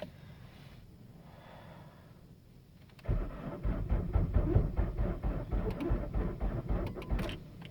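Opel Astra G 1.7 CDTI diesel engine being cranked by its starter on a cold start at about −15 °C: a loud, rapid, pulsing churn that begins about three seconds in and stops after about four seconds.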